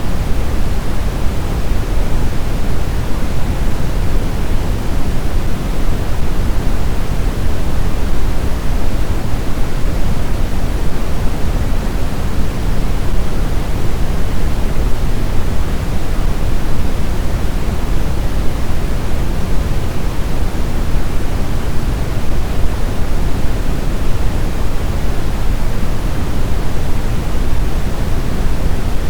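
Snowstorm wind ambience: a steady, unbroken rushing noise, heaviest in the low end, with no gusts, lulls or separate events.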